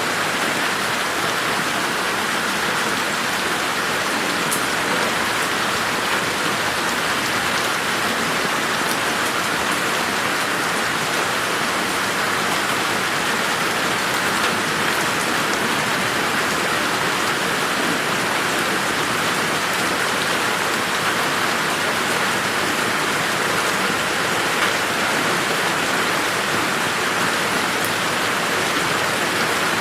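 Steady, heavy rain falling on a garden, a dense even hiss with occasional faint drop ticks.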